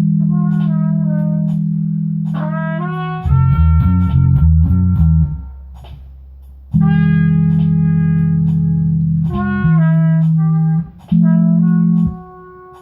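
A small band jamming live: a guitar plays short melodic phrases over long held low bass notes, with faint steady ticks of a cymbal. The low notes cut out and come back abruptly a few times, about three seconds in, around six seconds and near the end.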